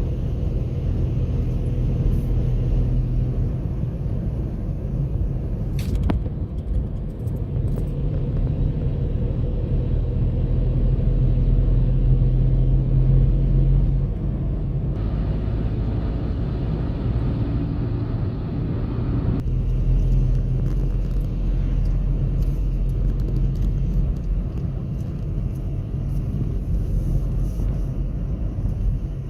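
A car driving: steady low rumble of engine and road noise, with a few abrupt changes in the sound.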